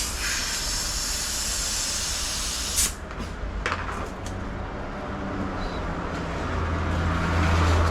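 A steady rush of hissing air for about three seconds that cuts off abruptly. After it, a low vehicle engine rumble builds toward the end.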